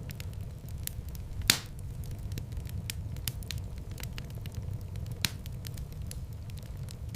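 Wood fire burning in a fireplace: a steady low rumble of flames with many small crackles, and two louder pops, the loudest about a second and a half in and another about five seconds in.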